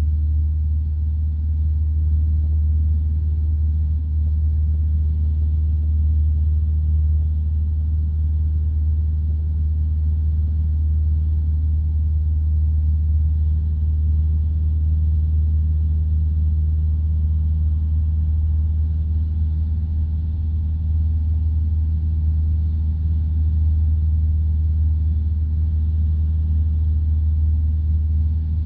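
Engine of a light single-engine piston aircraft running steadily, a constant low drone heard from inside the cockpit.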